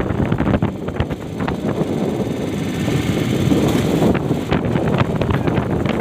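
Strong wind buffeting the microphone over big waves washing against a small fishing boat, with sharp knocks and crackles throughout and a louder hissing rush of water about three seconds in.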